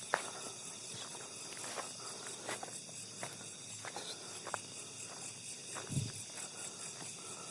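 Steady high-pitched insect chorus, like crickets chirring, with irregular footsteps and small crackles of leaves and twigs underfoot on a trail; a heavier step comes about six seconds in.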